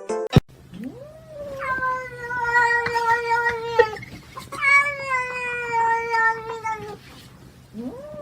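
Two long drawn-out howling calls from a pet animal. Each swoops up in pitch, then holds and slowly falls. A third, short rising call starts near the end.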